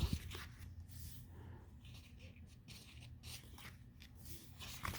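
Faint rustling and light taps of paper pages being handled and turned in a sticker book.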